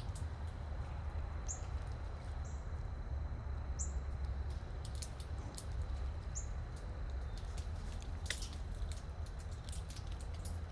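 Small animals feeding: scattered small clicks and crunches, with a few brief high bird chirps in the first half, over a steady low rumble.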